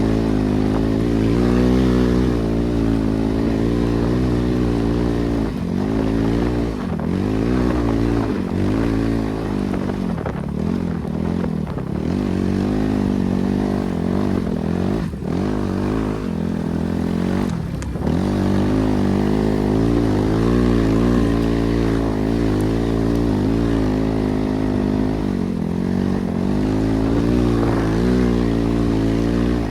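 BRZ MX8's NB300 single-cylinder four-stroke engine running under way, at steady revs, then rising and falling repeatedly through the middle as the throttle is worked and gears change, then steady again.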